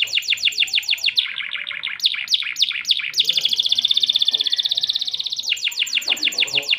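Domestic canary singing a fast, varied song: runs of quick downward-sweeping notes at about ten a second, slower sweeps, and a very rapid rolling trill held for about two seconds in the middle.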